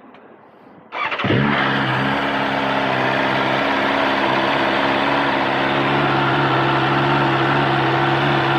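A 2024 BMW S1000RR with its stock exhaust, its inline-four engine cranked and firing up about a second in, then idling steadily and loudly.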